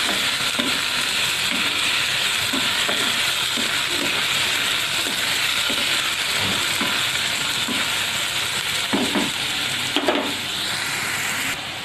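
Sliced bitter gourd sizzling in hot oil in a kadai, stirred with a wooden spatula that scrapes and knocks against the pan now and then. The sizzle goes quieter shortly before the end.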